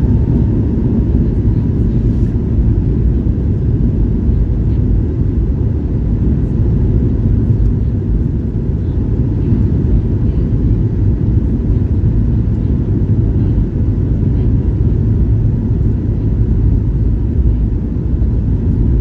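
Cabin noise inside a Boeing 737 MAX 8 airliner: its CFM LEAP-1B jet engines and rushing air make a steady, loud, low rumble with a faint steady hum above it.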